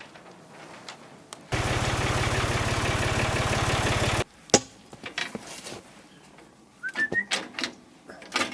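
A motor runs steadily with a fast pulse for nearly three seconds, then cuts off suddenly. Scattered clicks and knocks follow, with a short rising whistle near the end.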